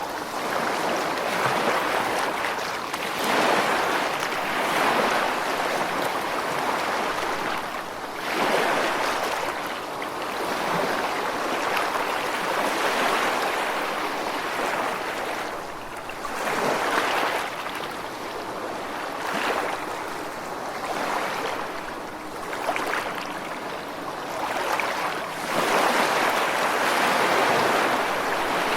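Ocean waves breaking and washing in, a steady rushing surf that swells and eases every few seconds.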